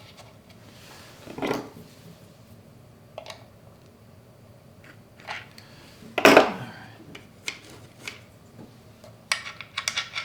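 Small hard parts being handled on a workbench: scattered clicks and light knocks, one louder knock about six seconds in and a run of small metallic clicks near the end.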